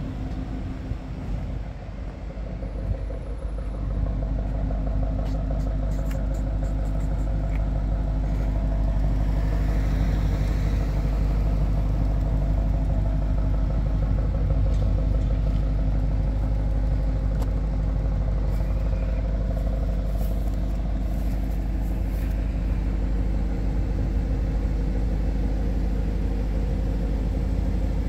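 Audi RS 6 Avant's twin-turbo 4.0-litre V8 idling with a steady low rumble, a little louder from about four seconds in.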